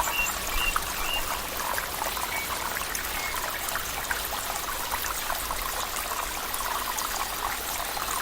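Water trickling and flowing steadily, like a small stream, with a few faint short high chirps in the first three seconds.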